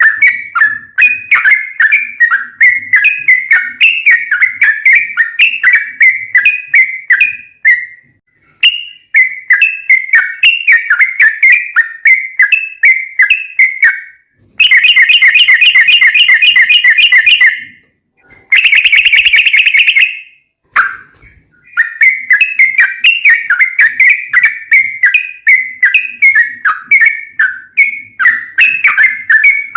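Yellow-vented bulbul (trucukan) singing long fast runs of bubbly chirping notes. About halfway through, the song breaks into a few seconds of rapid rattling and a harsh buzzy call, then the chirping runs resume.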